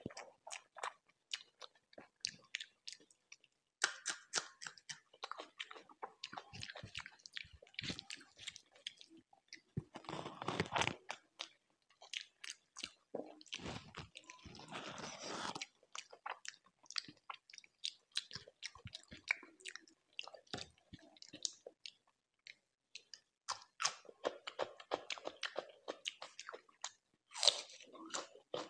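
Close-miked chewing of chicken and rice, with wet mouth clicks and smacks and several crunchy bites in bursts, pausing briefly a little past two-thirds of the way through.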